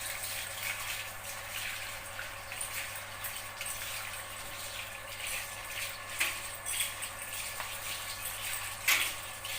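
Water running and splashing as a dog is bathed, a steady wash of water noise with small scattered splashes and one sharper splash near the end.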